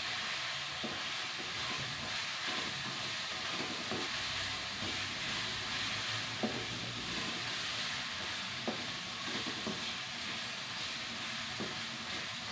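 Blended chili-and-shallot spice paste sizzling steadily in oil in a wok as a spatula stirs it, with a few light clicks of the spatula against the pan. The paste is being sautéed until cooked.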